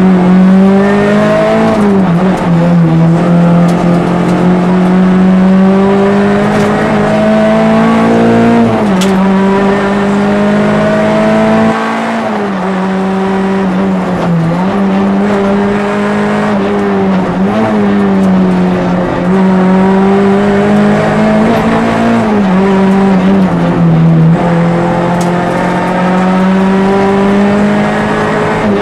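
Peugeot 206 RC rally car's 2.0-litre four-cylinder engine heard from inside the cabin, running hard at full throttle. The pitch climbs steadily and then drops sharply several times as it changes gear, with a few brief dips on lifts and braking.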